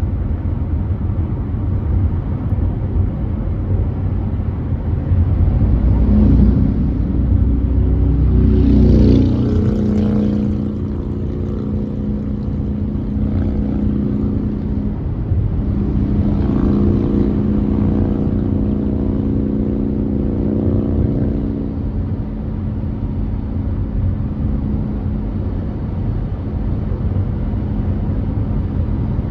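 Car driving on a freeway: steady low road and tyre rumble. A deeper pitched hum joins about six seconds in, swells twice, and fades out a little after twenty seconds.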